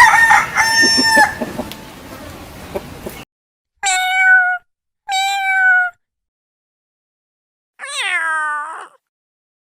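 Chickens clucking, with a held crowing note near the start, cut off about three seconds in. Then a domestic cat meows three times, two short level meows and a last longer one that falls in pitch.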